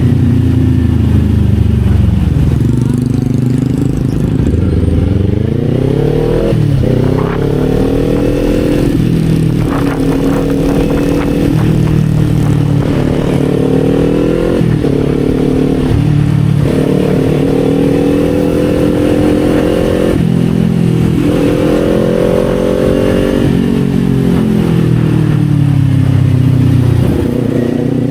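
Kawasaki Z400 parallel-twin motorcycle engine under way. Its pitch sinks for the first few seconds, then climbs and drops again and again as the rider works the throttle and shifts gears.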